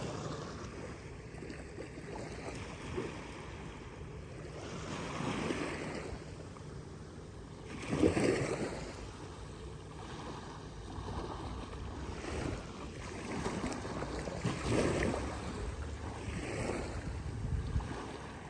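Small waves washing onto the beach in irregular surges, the strongest about eight seconds in, with wind rumbling on the microphone.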